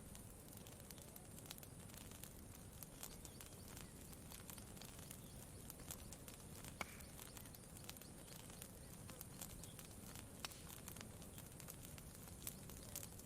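Campfire crackling faintly: scattered soft pops and ticks at irregular intervals over a low steady rumble, with one brief high chirp about halfway through.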